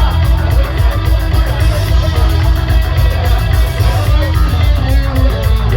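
Loud live rock music with electric guitar and a heavy, steady low end.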